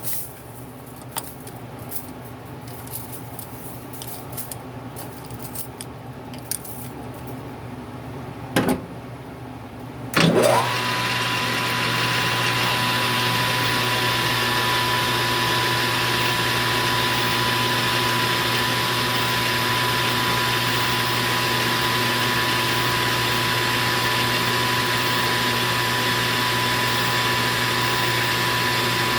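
A few light clicks and knocks, then about ten seconds in a metal lathe starts with a knock, its motor rising quickly in pitch, and runs steadily with a constant high whine.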